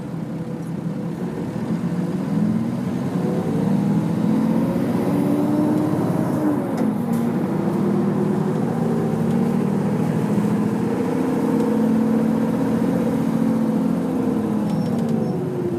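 Nissan Diesel UA city bus's diesel engine heard from inside the cabin, pulling hard under acceleration. The engine note rises, drops once about six and a half seconds in as it shifts gear, climbs again, then falls away near the end as the bus eases off.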